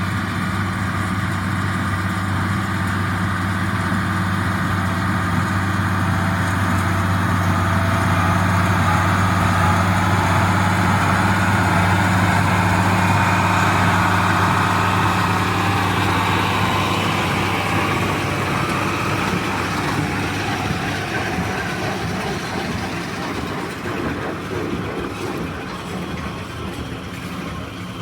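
1977 International Harvester 886 diesel tractor engine running steadily while pulling a small square baler. It grows louder toward the middle, then fades near the end as the tractor moves away.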